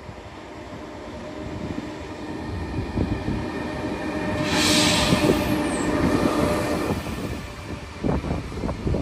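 High-speed train passing: a rushing sound that builds for several seconds, peaks with a burst of high hiss about halfway through, then fades. Wind buffets the microphone near the end.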